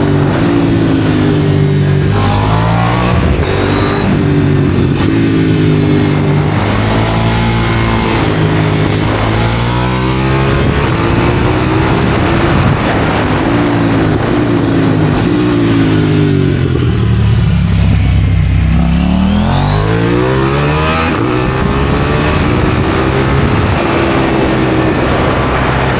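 KTM 790 Duke's parallel-twin engine through an aftermarket IXRACE exhaust, accelerating hard through the gears: its pitch climbs, drops at each shift and climbs again. About two-thirds of the way through it falls away on closed throttle, then pulls back up.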